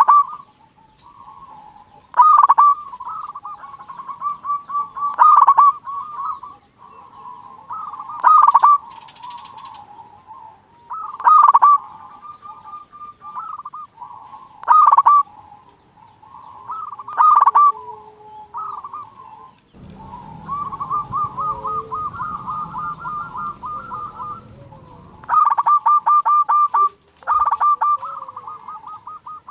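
Zebra dove (perkutut) singing: repeated phrases of staccato cooing notes, each with a loud burst, about every three seconds. About two-thirds of the way in, a longer run of rapid, evenly spaced notes plays over a low rumble.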